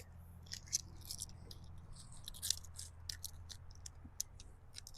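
Faint, irregular crinkling and ticking of a stencil transfer sheet being handled, over a low steady rumble.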